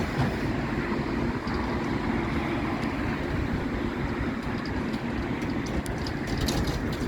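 A tram running along its rails: a steady low rumble and hum, with a few light clicks from the wheels and track near the end.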